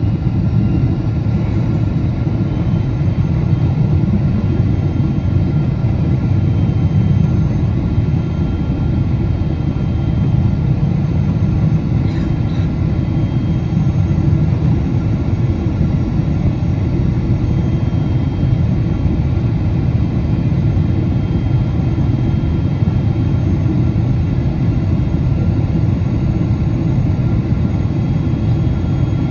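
Boeing 777-200 in flight: a steady, deep rumble of engines and rushing air with faint steady tones above it, and one brief click about twelve seconds in.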